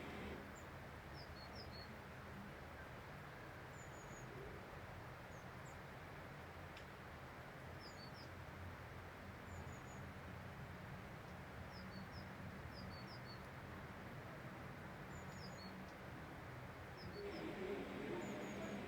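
Small birds chirping faintly, with short high calls every second or two over a steady low background hush.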